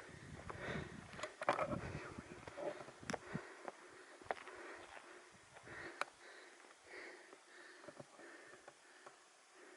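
A hiker's heavy breathing while climbing, mixed with footsteps and scattered clicks of steps on the ground.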